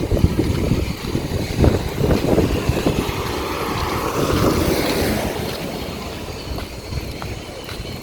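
A vehicle passing on the road, its noise swelling about halfway through and then fading, with wind buffeting the microphone.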